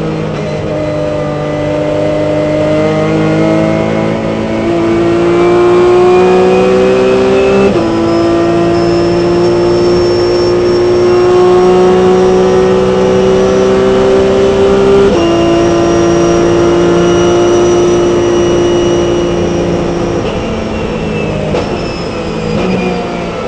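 Onboard sound of a Porsche 997 Cup race car's flat-six engine at full throttle, its note climbing slowly through the gears. It drops sharply on two upshifts, about a third and two thirds of the way in, then falls away near the end as the throttle comes off.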